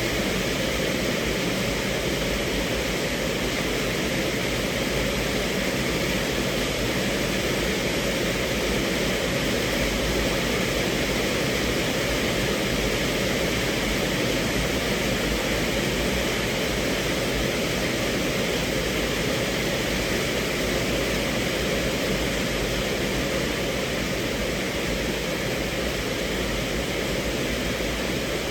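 Rain falling on a car's roof and windows, heard from inside the cabin as a steady, even rush of noise.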